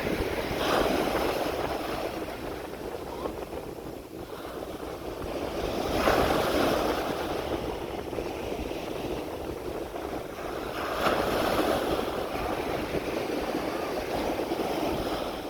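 Sea waves breaking on a beach: a steady wash of surf that swells three times, about five seconds apart, over a constant low rumble.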